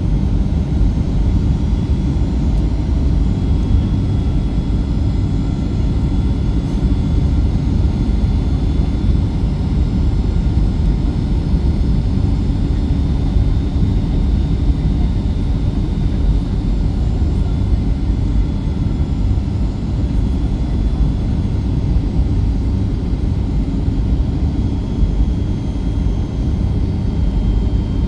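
Steady cabin noise of a Boeing 737-8 MAX on approach: a low rumble of airflow and its CFM LEAP-1B engines, with faint steady engine tones above it.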